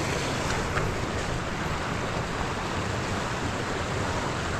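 A river rushing steadily over its bed, a constant even wash of water noise.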